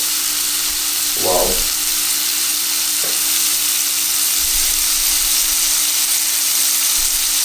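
Cajun-seasoned shrimp sizzling in a hot pan, a steady frying hiss, with a faint steady hum underneath.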